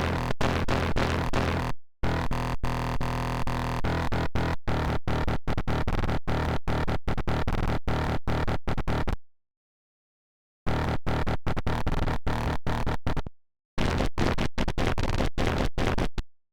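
A Serum software synthesizer patch built from an image-derived wavetable, played as rapid repeated notes, roughly five a second, that stop dead several times, with a gap of total silence of over a second about nine seconds in.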